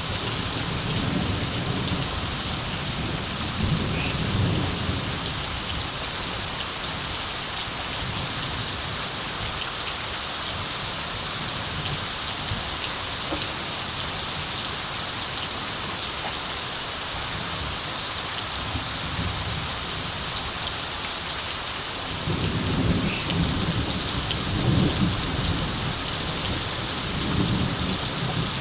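Steady rain falling on the ground and surfaces, with distant thunder rumbling low twice: once near the start and again over the last several seconds.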